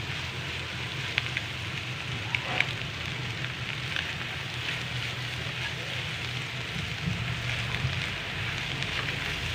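Stir-fry of shredded cabbage, egg and Maggi noodles sizzling with a steady hiss in a non-stick kadhai, with light clicks and scrapes of the spatula against the pan as it is tossed. A steady low hum runs under it.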